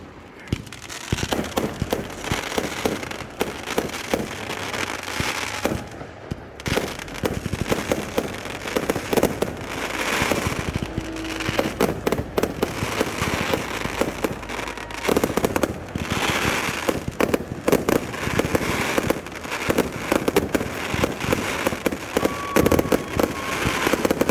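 Fireworks going off in quick succession: a dense run of bangs and pops with crackling between them.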